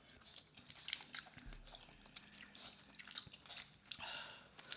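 Faint, close-miked sounds of a person chewing a seafood boil, with scattered small clicks from lips and teeth.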